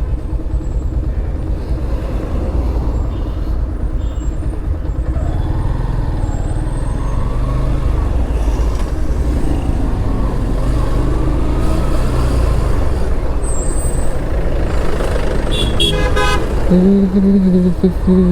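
Motorcycle riding along a road, its engine and road noise a steady low rumble. About seventeen seconds in a vehicle horn sounds, a low steady honk that breaks off briefly and resumes.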